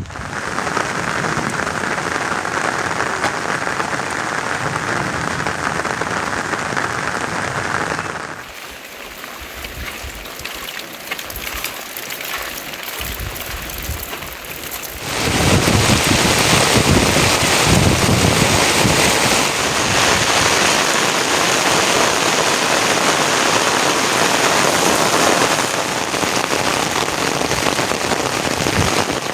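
Steady heavy rain falling as a dense hiss. It drops off abruptly about eight seconds in, then comes back louder and hissier about fifteen seconds in.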